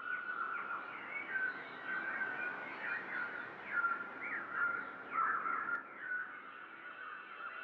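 Small birds chirping in a busy chorus of many short, quick calls that rise and fall in pitch.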